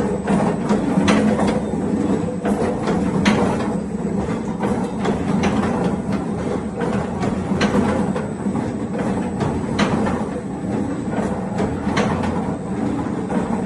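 Glass mosaic production machine running: a steady mechanical hum with sharp clacks every second or two.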